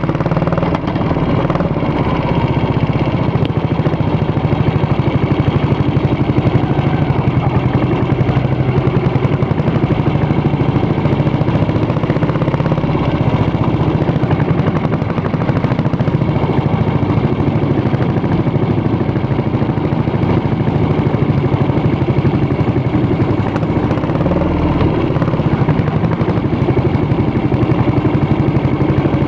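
Yamaha SR400's air-cooled single-cylinder four-stroke engine running steadily through its exhaust, a fast, even beat of firing pulses.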